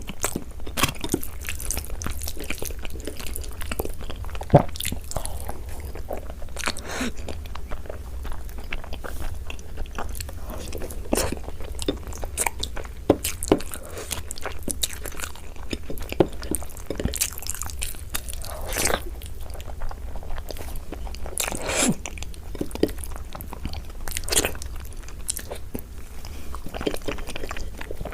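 Close-miked mukbang eating sounds: repeated crunchy bites and chewing, irregular crackles and clicks over a low steady hum.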